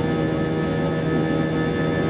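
Airbus A320 cabin noise in the climb: a steady drone of engine and airflow with several constant whining tones.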